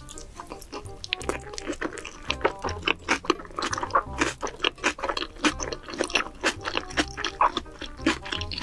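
Close-miked wet chewing of a large mouthful of raw salmon sashimi: rapid, dense mouth clicks and smacks, over soft background music with a low beat.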